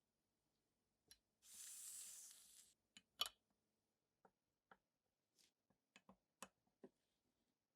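A short hiss lasting a little over a second, then light clicks and taps of small metal pistol parts being handled, the loudest a sharp click just past three seconds in.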